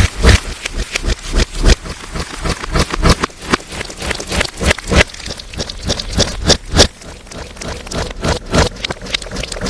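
Slime being squished and stretched by hand, a dense run of irregular wet clicks and pops. The sound is distorted and loud.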